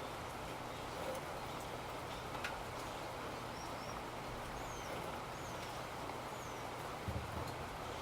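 Steady rain falling, with scattered faint drip ticks. A few faint high chirps come through in the middle, and there is a soft low thump about seven seconds in.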